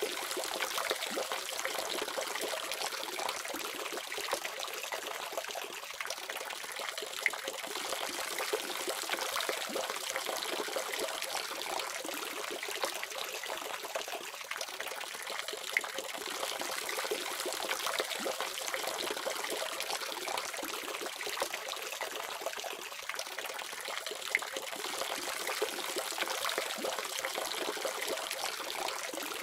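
Water faucet running steadily, an even splashing hiss with a few small splashes standing out.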